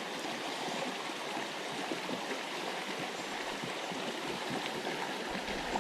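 Steady rush of a mountain trout creek's flowing water.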